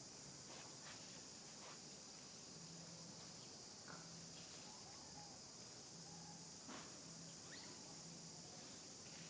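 Faint, steady high-pitched insect chorus, with a few soft clicks and rustles.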